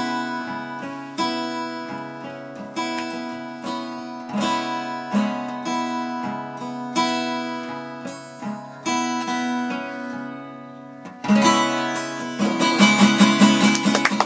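Acoustic guitar playing the instrumental close of a ballad, slow sustained chords struck about every second and a half. About eleven seconds in it changes to quicker, brighter strumming.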